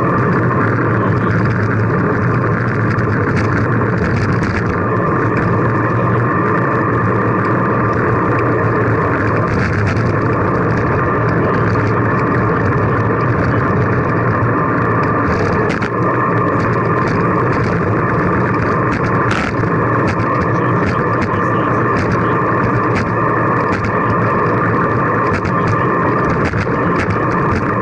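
Steady rush of wind and road noise on a camera microphone riding along on a bicycle, with a few faint clicks.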